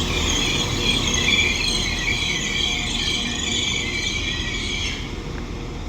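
Northern Class 195 diesel multiple unit squealing as it pulls in to stop at the platform. The squeal is high-pitched, several steady metallic tones over a low rumble, and it cuts off about five seconds in.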